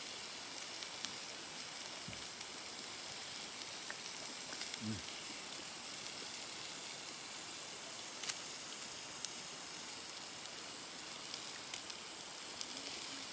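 Steak sizzling steadily in a skillet over a campfire, with a few sharp pops and crackles here and there.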